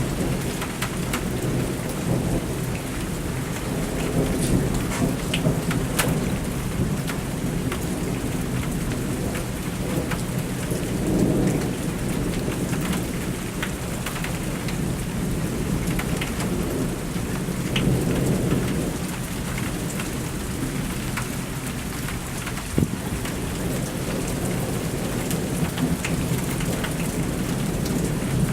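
Thunderstorm: steady heavy rain hitting surfaces, with low rolls of thunder swelling about a third and two thirds of the way through, and scattered sharp drop hits close by.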